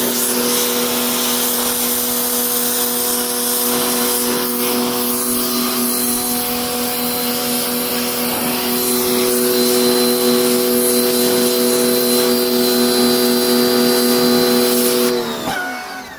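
Pressure washer running with a steady motor whine under the hiss of its water jet, cutting off near the end.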